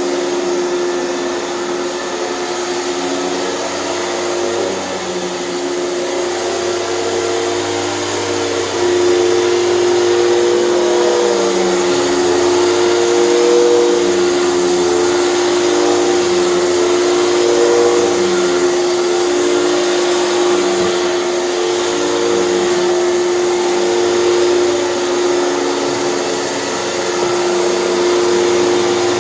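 Hoover canister vacuum cleaner running steadily with a constant motor whine, getting louder about nine seconds in.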